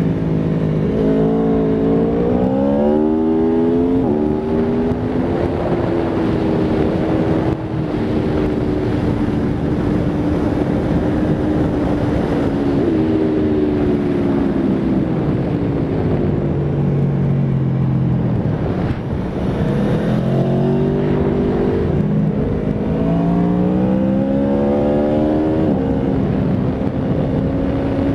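Aprilia Tuono V4 RR's V4 engine under hard acceleration, its pitch climbing and dropping back with each quick upshift. Partway through it winds down as the bike slows, then pulls up through the gears again near the end, with wind rushing past throughout.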